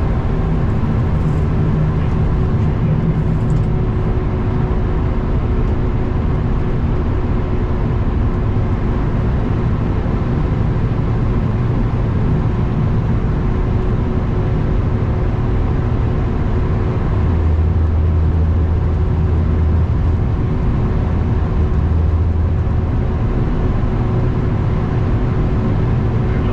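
Kenworth W900 semi truck's diesel engine running steadily under way, with road and wind noise. The low drone grows stronger twice in the second half.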